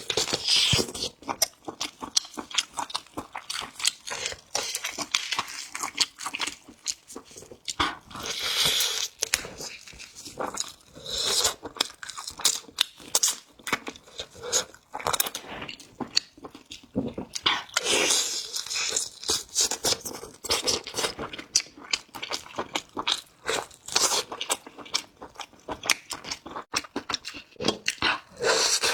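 Close-up chewing and crunching of roasted chicken: irregular crackling bites with louder bursts every few seconds.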